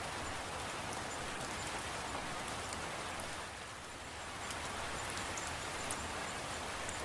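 Steady rain falling, with scattered sharp drip ticks on top; the downpour eases briefly about halfway, then comes back.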